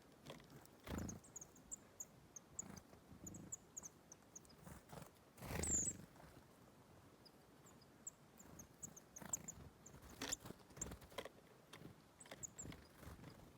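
Small birds at a bird table giving short, high chirps and calls, with scattered light taps and rustles. One louder rustle comes about five and a half seconds in.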